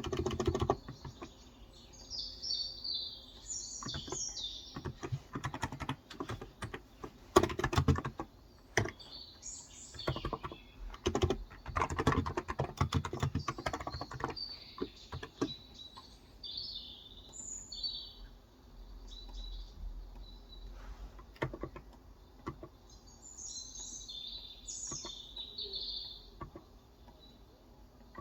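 Typing on a Cox Endeavor electro-capacitive (contactless) 35 g tenkeyless keyboard: runs of quick keystrokes, dense for the first half and sparser after, while small birds chirp in the background.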